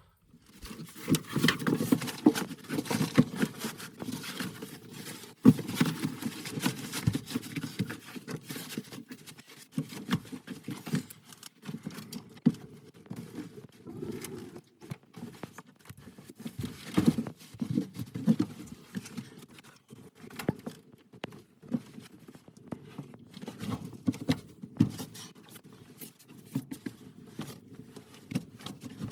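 Irregular rustling, tapping and knocks of sleeping pads, blankets and gear being handled and laid out on a shanty floor, with louder thumps now and then, the sharpest about five seconds in.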